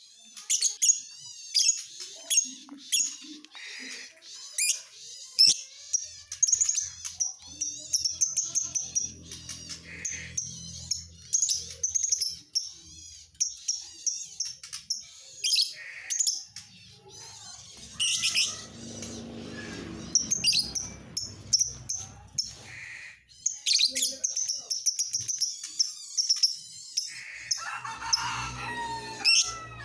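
Lovebird singing: a long, rapid run of sharp, high-pitched chirps and chattering trills.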